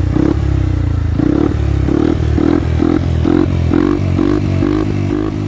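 Yamaha XMAX 250 scooter's single-cylinder four-stroke engine running through an aftermarket Burnout racing exhaust. The exhaust note is loud and pulses about twice a second, the pulses coming a little faster near the end.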